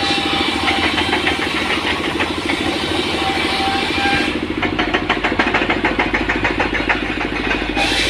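An engine running steadily at an even pitch with a fast clatter over it; about four seconds in the sound turns deeper and the clatter grows stronger.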